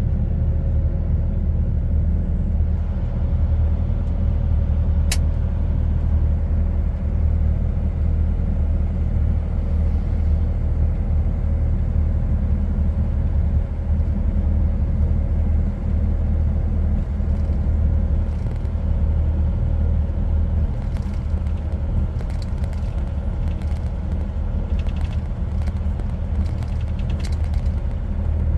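Truck cab on the move: a steady low engine and road drone. There is one sharp click about five seconds in, and a few faint ticks near the end.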